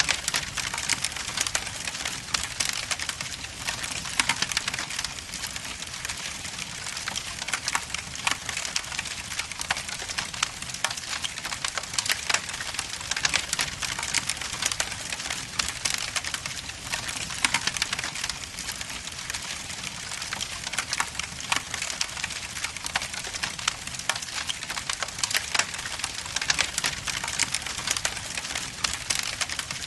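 Logs burning in a fireplace: continuous fine crackling with dense sharp pops and snaps over a steady hiss.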